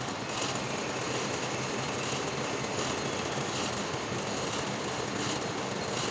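Metal lathe running, a steady mechanical noise with a brighter hiss that recurs about every three-quarters of a second.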